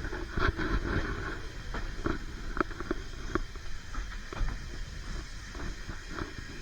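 Narrow-gauge railway train running: a steady rumble with irregular clanks and knocks from the wheels and running gear on the track.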